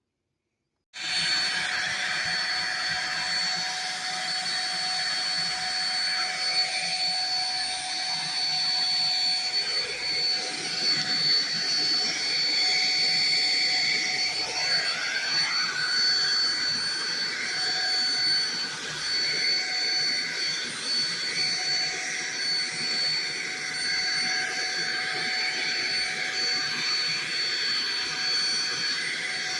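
Black+Decker 3-in-1 stick vacuum switched on about a second in, then running steadily with a constant high-pitched whine over the motor and airflow noise as it vacuums the floor.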